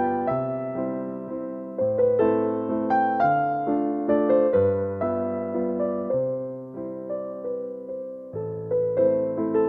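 Slow, gentle piano music: melody notes over a bass note struck about every two seconds, each note ringing and fading.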